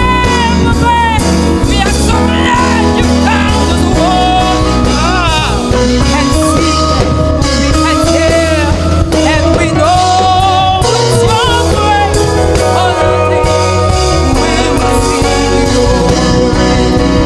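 Live gospel worship band playing without a break: drums and a full low end under keyboards, with a sliding, wavering lead melody on top.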